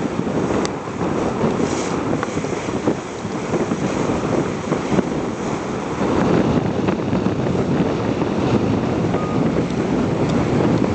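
Wind buffeting the microphone over the rush of water along a boat's hull as it moves. A steady noise that grows a little louder about halfway through.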